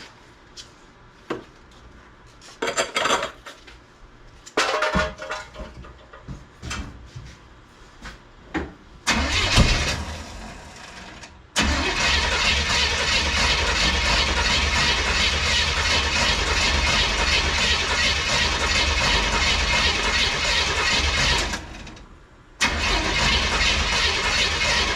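Small-block NASCAR V8 race engine in a Mazda B1600 pickup firing up after a short burst, then running loud and steady for about ten seconds. It dies away near the end and starts running again a second later. Scattered clanks and knocks come before it fires.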